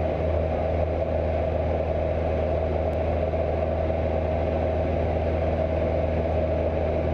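Cessna 172's piston engine and propeller running steadily in flight: a constant drone with a steady hum and a deep layered rumble beneath.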